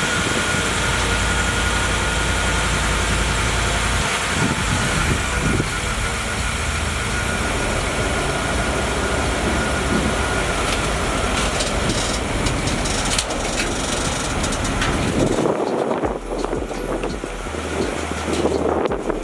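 Vehicle engine running steadily. In the last few seconds wind buffets the microphone.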